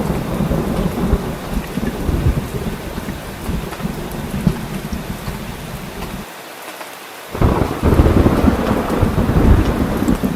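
Steady heavy rain with deep rolling thunder. The low rumble cuts out for about a second just past the middle, then returns louder.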